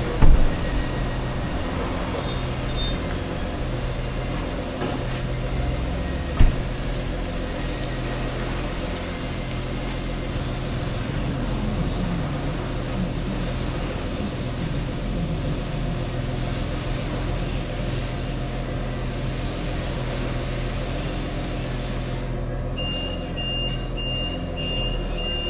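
BMW F800GS parallel-twin engine running under way, with wind and road noise. There is a sharp knock at the start and another about six seconds in. Near the end the wind noise drops away and a run of short, high beeps sounds.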